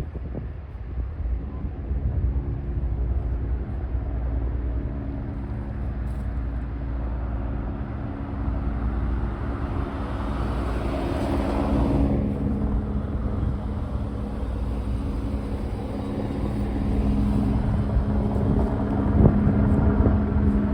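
Motor vehicle traffic: an engine running steadily, with a vehicle passing that swells about eleven to twelve seconds in and then fades.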